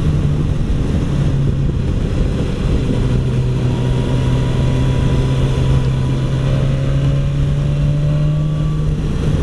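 BMW S1000XR's inline-four engine running at a steady cruise, with wind and road rush. The engine note eases down slightly a couple of seconds in and holds there.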